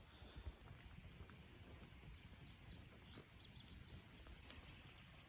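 Faint outdoor ambience: small birds chirping softly in short rising and falling notes over a low rumble, with one sharp click about four and a half seconds in.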